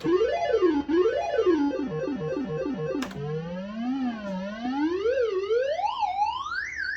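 Bell-Fruit Wild Cats fruit machine's electronic sound effect: a synthesized tone sweeping up and down in a zig-zag, a quick run of falling notes about two seconds in, then zig-zag sweeps climbing steadily higher.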